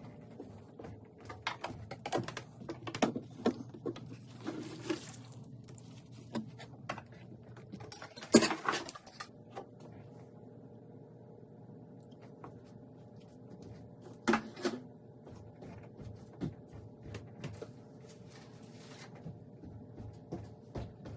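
Scattered knocks, clicks and rattles of objects being handled, with a sharp knock about eight seconds in and another about fourteen seconds in, over a steady low hum.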